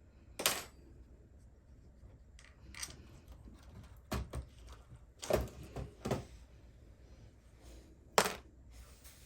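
Scattered sharp clicks and knocks of small parts and hand tools being handled and set down on a workbench while an RC car's axle and differential are taken apart, about six in all, the loudest about half a second in and near the end.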